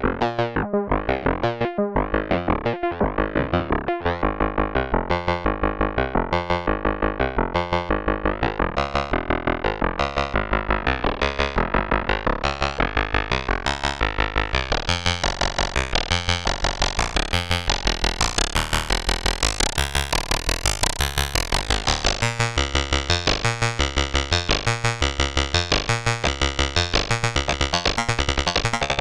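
K-ACCUMULATOR synthesizer module playing a melody in its FBPM2 feedback phase modulation mode: a rapid, even stream of short pitched synth notes stepping between pitches, with no other instruments.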